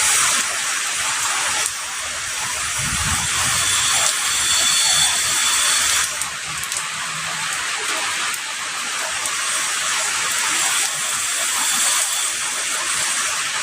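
Heavy rain falling steadily, an even loud hiss, with a faint low rumble of distant thunder about three seconds in.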